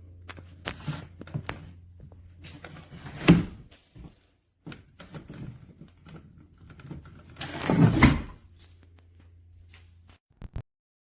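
Hard objects being handled: scattered clicks and knocks with two louder thunks, about three seconds in and again around eight seconds in, over a low steady hum that stops near the end.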